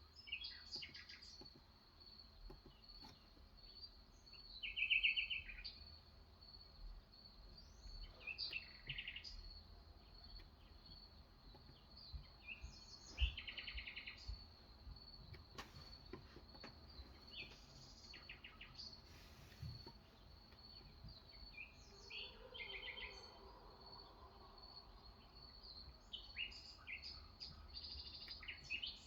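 Small birds chirping in short bursts of rapid notes every few seconds, over a faint steady high-pitched tone.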